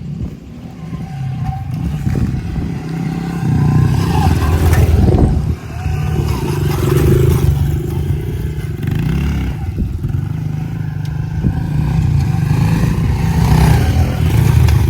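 Dirt bike engine running under throttle, swelling about three and a half seconds in, with a brief drop near five and a half seconds in, then rising and falling as the rider works the throttle around the track.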